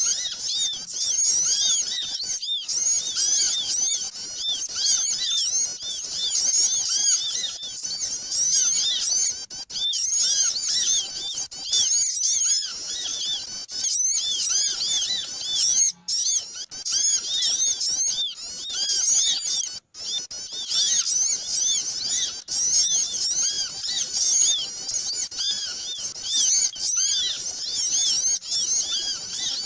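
A dense, noisy chorus of many small songbirds chirping, rapid high arched chirps overlapping without pause, as used in a bird-lure recording to attract small birds. The sound cuts out briefly twice, a little after the middle.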